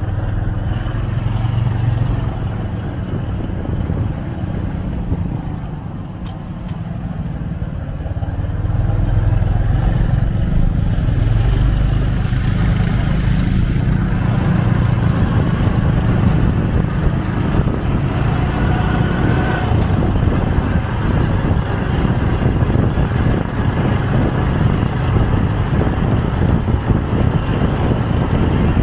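Motorcycle taxi engine running under way, with road and wind noise and passing traffic. It grows louder about a third of the way in and stays loud.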